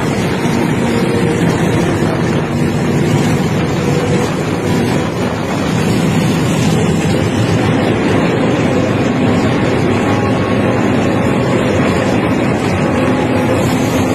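Passenger train running: a loud, steady rumble of the moving carriages, with wind blowing on the microphone.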